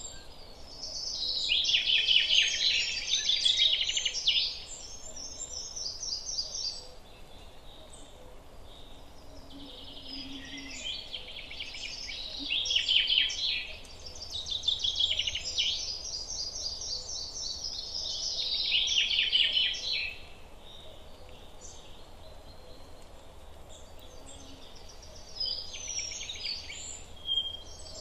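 Songbirds singing long, rapid, trilling and warbling phrases several seconds each, loudest near the start, with quieter gaps between, over a steady faint background hiss.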